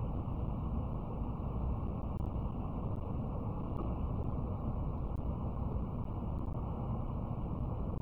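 Steady low rumble of an N700S Shinkansen running at speed, heard inside the passenger cabin, even throughout with no distinct events.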